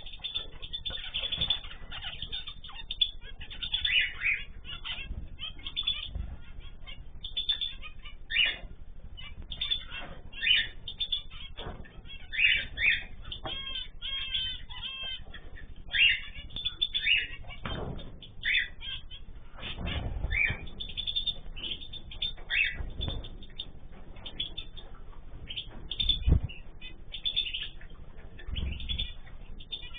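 Mixed aviary of cage birds (cockatiels, canaries, zebra finches, goldfinches) chirping and calling over one another in short high notes, with a quick run of repeated warbling notes about halfway through. Wings flap now and then, giving a few low thumps.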